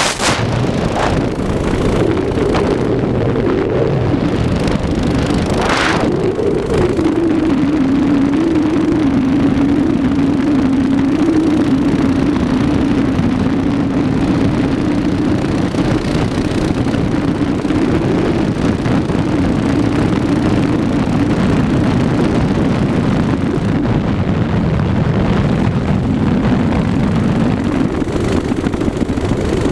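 Mini bike's small engine running steadily under way, its pitch wandering with the throttle: it drops after about six seconds, dips again later and climbs near the end. Wind buffets the microphone throughout.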